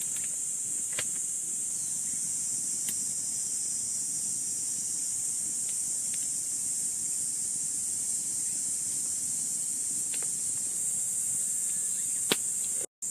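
Steady high-pitched drone of an insect chorus, with a few scattered sharp clicks and one louder click near the end.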